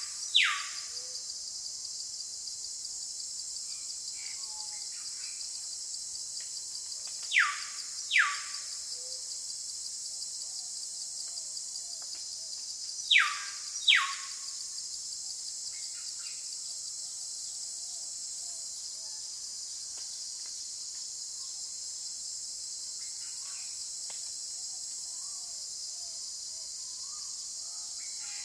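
A steady high-pitched insect chorus of crickets or cicadas, with a bird three times giving a loud two-note call, each note a quick downward-sweeping whistle.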